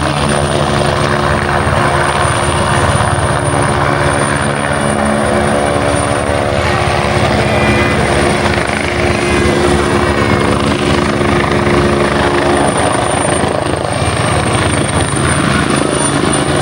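Helicopter hovering: a continuous deep, even hum with a thin high whine above it.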